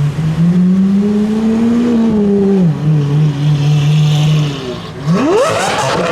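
Lamborghini supercar engine running at a steady low pitch that drifts slightly up, then falls and settles lower, followed about five seconds in by a sharp rev with the pitch climbing fast.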